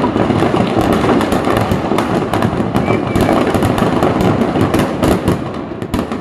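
Firecrackers packed into a burning Ravana effigy going off in a dense, continuous crackle of rapid bangs, thinning out near the end.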